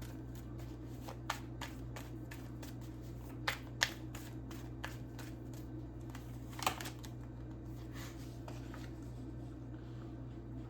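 Tarot cards being shuffled by hand: scattered soft clicks and snaps of the cards, with a few sharper ones near the middle, over a steady low hum.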